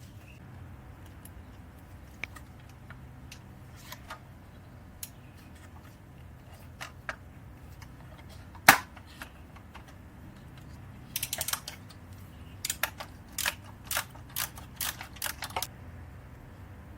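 Metal hand tools clicking and clinking against motorcycle exhaust hardware: scattered light clicks, one sharp metallic knock about halfway in, then a run of quick, irregular clicks for several seconds near the end.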